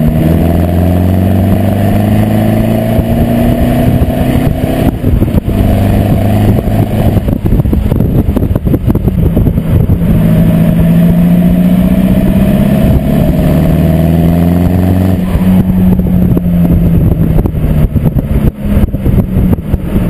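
Seat Leon 2.0 TDI four-cylinder diesel through an open, muffler-less exhaust, pulling under load. The engine note climbs steadily for several seconds, drops sharply at each gear change, then climbs again.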